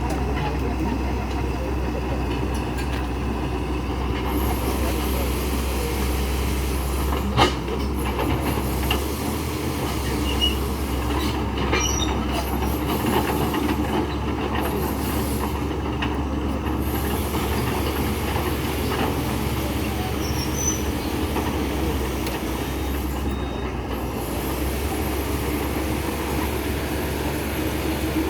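Engines running with metallic squealing and clattering, over a steady low rumble. A single sharp knock comes about seven seconds in.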